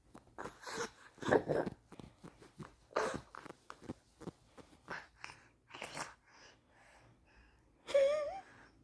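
A baby making a funny sound: a run of short breathy bursts, then near the end a brief voiced squeal that wavers upward in pitch.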